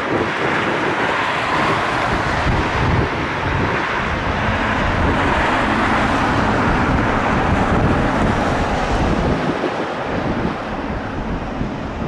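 Steady jet airliner engine noise, a loud even roar with an uneven low rumble from strong wind buffeting the microphone.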